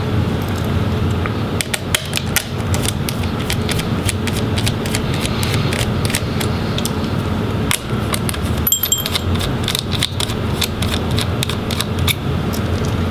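Small screws being backed out of a laptop's fan and heatsink assembly with a Phillips driver: many light metallic clicks and clinks over a steady low hum.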